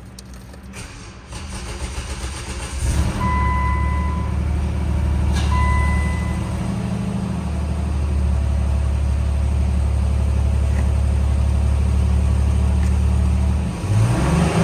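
2008 Jeep Wrangler's 3.8-litre V6 starting up and settling into a steady idle about three seconds in. Two long electronic beeps sound shortly after it starts, and the engine note changes briefly near the end.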